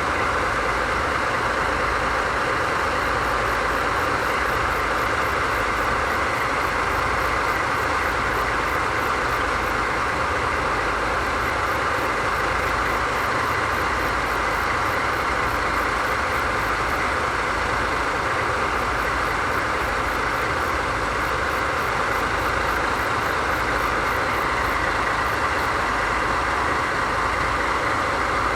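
DD51 diesel-hydraulic locomotive's twin V12 diesel engines idling steadily, a constant low rumble with a hard mechanical drone above it.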